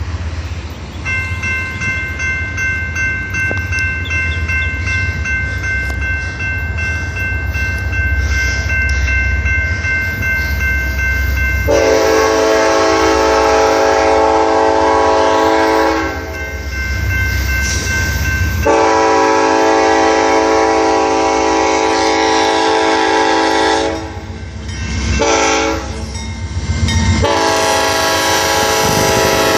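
Freight train's diesel locomotives running with a low rumble while a steady high ringing tone sounds over them. About twelve seconds in, the locomotive's multi-chime air horn starts blowing the grade-crossing signal: long, long, short, then a last long blast still held at the end.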